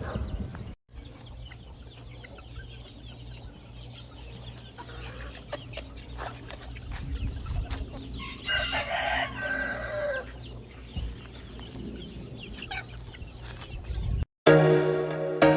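Rooster crowing once, about halfway through, with a call that drops in pitch at its end, over scattered clucking from the flock and a steady low hum. Music begins just before the end.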